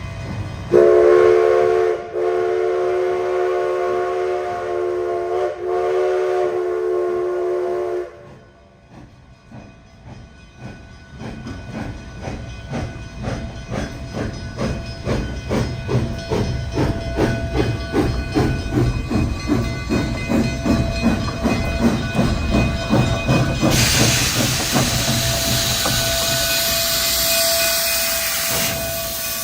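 A steam locomotive whistle sounds a long blast, a chord of several tones. After a short pause the exhaust chuffs of Durango & Silverton narrow-gauge steam locomotives start slow and quicken as the train pulls away. About 24 seconds in, a loud steam hiss rises over the chuffing for about five seconds.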